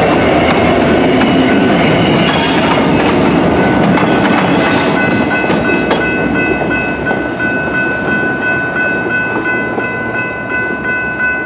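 A Norfolk Southern caboose trailing a GP60 locomotive rolls past over a grade crossing, its wheels rumbling on the rails, and the noise fades after about five seconds. The crossing's warning bell rings in rapid, even repeats throughout and stands out clearly once the train has gone.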